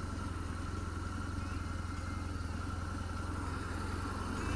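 BMW R1200 GSA's boxer-twin engine running with a steady low rumble.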